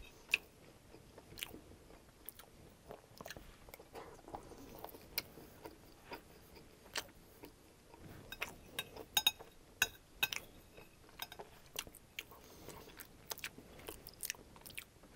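Close-miked chewing of a mouthful of crispy chicken fried rice: faint, wet mouth sounds broken by irregular sharp clicks.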